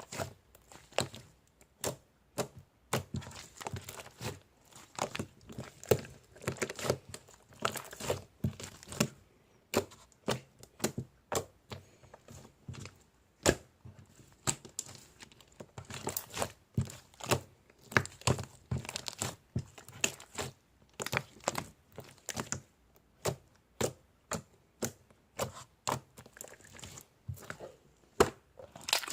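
Close, irregular crackling, crinkling and tapping: several sharp clicks a second, in uneven clusters with short pauses.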